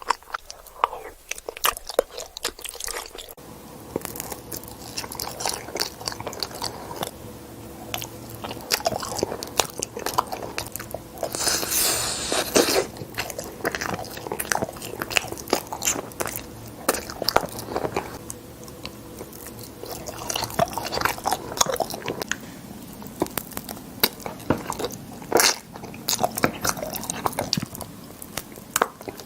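Close-miked eating: repeated biting and chewing with crunching and wet mouth clicks, in an irregular run, with a louder rushing burst about twelve seconds in.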